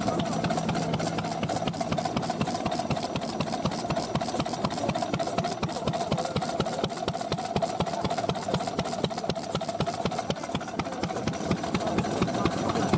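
Vintage stationary engine running steadily, a rapid, even beat of exhaust strokes.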